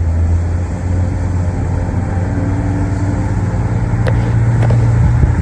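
A car being driven: a steady low engine hum with road noise.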